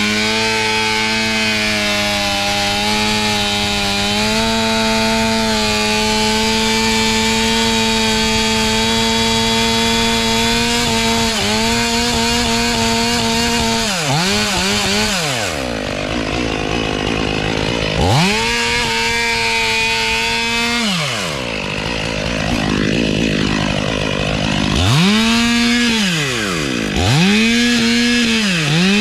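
Two-stroke chainsaw running at high revs while cutting wood, its engine note steady at first, then dropping and climbing back several times in the second half.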